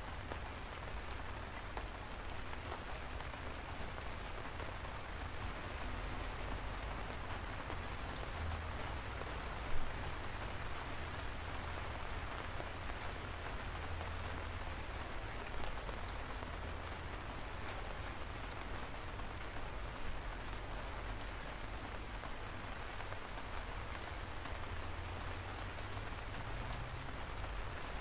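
Steady rain with a low rumble underneath and scattered sharp drop hits, the loudest about ten seconds in.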